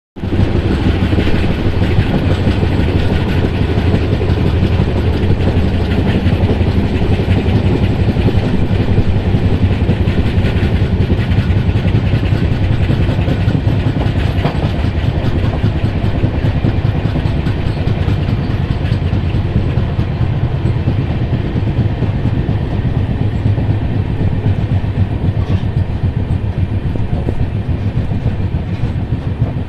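A train running on the rails: a loud, steady low rumble whose higher sounds fade somewhat over the last several seconds.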